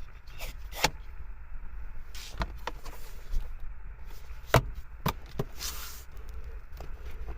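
A handful of sharp knocks and clicks, about five spread over several seconds, the loudest a little past the middle, over a steady low rumble.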